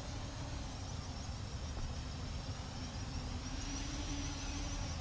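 Cheerson CG035 quadcopter's motors and propellers buzzing steadily while it flies, over a low rumble.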